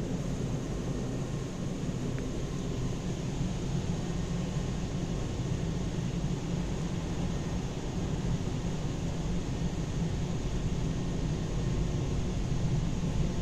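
Automatic car wash machinery running, a steady rush of noise with a low hum that grows slightly louder toward the end.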